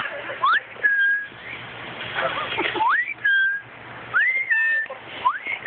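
A bird whistling a repeated two-part call: a quick rising note that levels off into a short held tone, four times.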